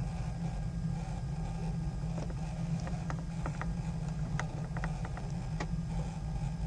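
Steady low rumble inside a sleeper express train's carriage as it rolls slowly, with a scattering of light clicks and creaks from about two seconds in.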